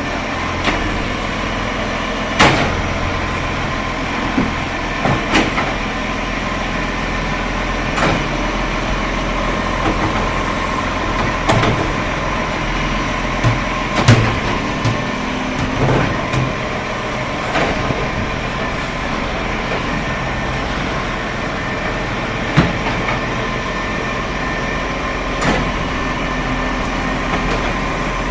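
A road vehicle running steadily, with a constant low hum and irregular sharp knocks and rattles every few seconds.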